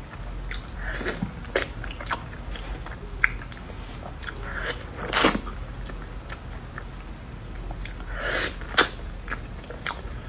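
Close-miked chewing of soft durian flesh: irregular mouth clicks and smacks, a few louder ones in the middle and near the end, as fingers pull apart a piece of durian.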